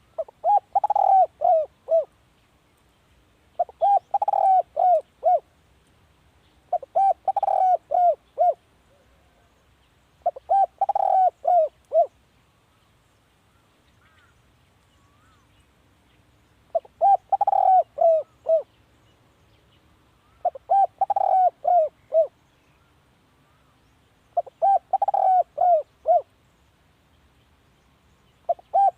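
Spotted dove cooing: a repeated phrase of about five or six short coos, given roughly every three and a half seconds, with a longer pause about halfway through.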